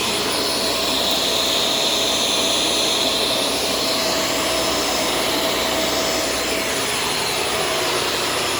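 Shark Stratos vacuum cleaner running steadily while vacuuming a floor: rushing air with a steady whine, the hiss brightening for a few seconds near the start.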